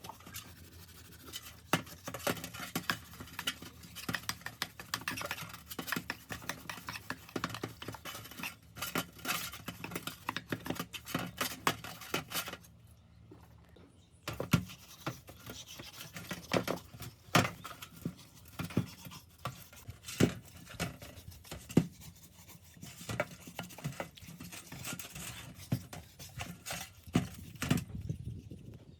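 Irregular clicks, taps and scraping of small metal parts being handled and worked by hand, with a short pause about halfway through.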